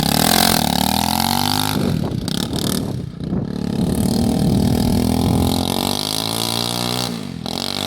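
Kawasaki Bayou 300 ATV's single-cylinder four-stroke engine, running straight-piped with no exhaust or muffler fitted, revved up and let back down several times; stupid loud.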